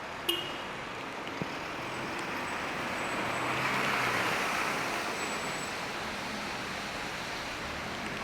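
A vehicle passing on a wet street: tyre hiss swells to its loudest about four seconds in, then fades, over the steady background hiss of the rainy city. A sharp click sounds just after the start.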